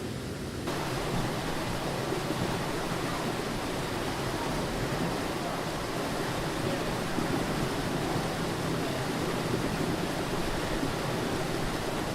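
Steady rushing roar of a waterfall. It starts abruptly less than a second in, replacing a duller low rumble.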